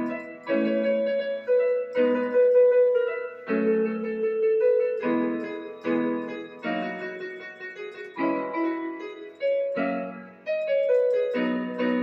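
Battery-powered electronic keyboard with a piano sound, playing a slow piece: single notes and chords struck every half second to second and a half, each fading as it sustains.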